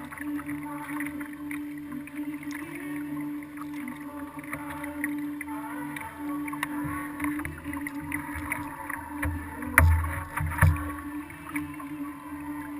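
Water splashing and paddle sounds from a kayak picked up by a camera mounted on the hull, with a steady low hum underneath. Two loud knocks come about ten seconds in.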